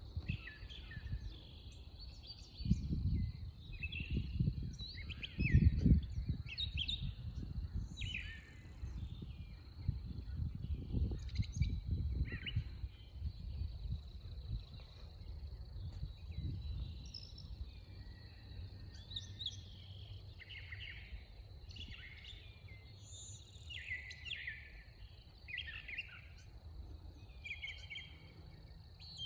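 Wild birds chirping in short calls throughout, over a low rumble on the microphone that swells several times in the first half.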